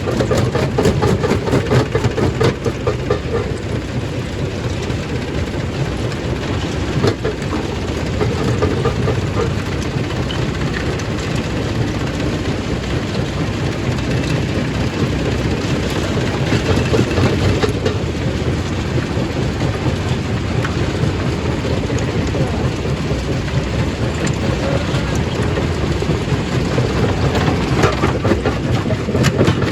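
Stone crushing machine running, a continuous heavy rumble with a constant clatter of rock being broken and tumbling through it.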